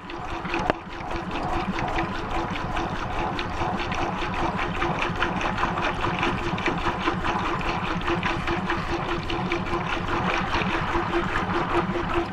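Maytag washing machine running a wash cycle, heard from inside the tub: water sloshing and splashing around the load, over a pulsing motor hum that repeats evenly throughout.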